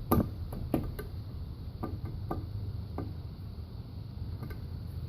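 A few irregular light clicks and taps from a 10 mm socket working a new valve stem seal down onto a valve guide of a Toyota 1ZZ-FE cylinder head, the seal not yet fully seated. A steady low hum runs underneath.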